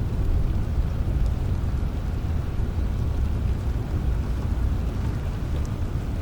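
Steady rain with a deep, continuous low rumble, like distant thunder, and a few faint ticks of drops.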